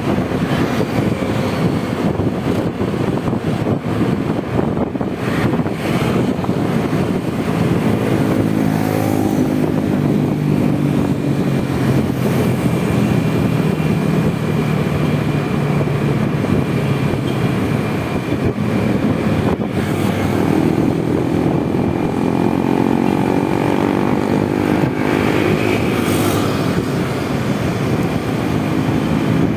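Honda Vario 125 scooter being ridden, with wind buffeting the microphone. From about eight seconds in, the engine hum falls and rises in pitch as the scooter slows and speeds up in traffic.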